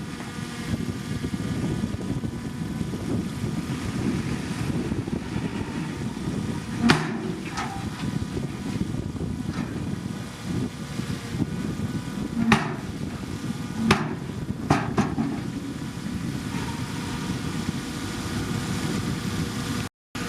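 Bulldozer diesel engine running steadily, with a handful of sharp metallic clanks from the machine's blade or tracks, two close together about seven seconds in and a cluster between about twelve and fifteen seconds.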